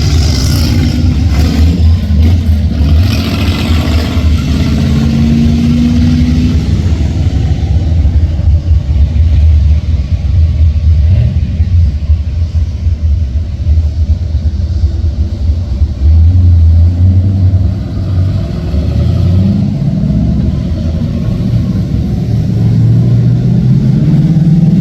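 Engines of classic cars driving past in a slow line, a deep steady engine sound with pitch rising as one speeds up about five seconds in and again near the end.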